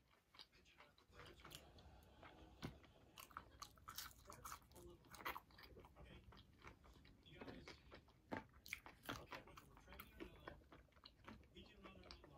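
Faint close-up chewing of seasoned French fries, with many short, soft mouth clicks and smacks scattered irregularly.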